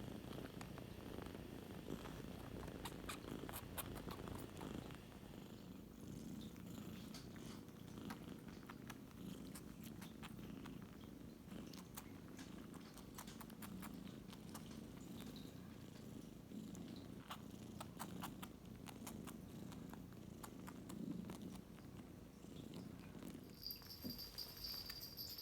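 Kitten purring steadily and close, a low continuous rumble with faint scattered clicks.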